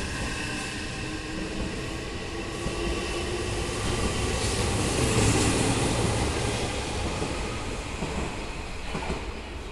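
Odakyu Romancecar electric train running past the platform and away. Its wheels rumble on the rails, with a thin motor whine rising in pitch over the first couple of seconds. It is loudest about halfway through, then fades as the train recedes.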